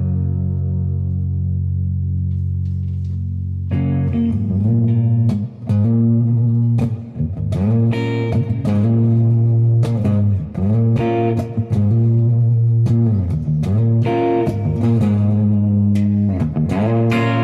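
Gibson Les Paul electric guitar played through an overdrive pedal into a Marshall amp. A held chord rings out and fades for the first few seconds, then a run of picked notes and chords follows.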